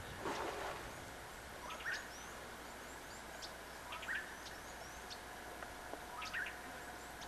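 A bird calling over and over, a short rising note with a few clicks about every two seconds, with faint high chirps in between. A brief rush of noise sounds just after the start, over a steady hiss.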